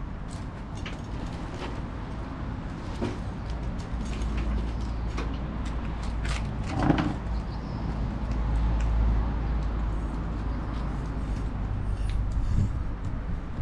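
Wood bonfire crackling, with scattered sharp pops and a louder crack about seven seconds in, over a steady low rumble.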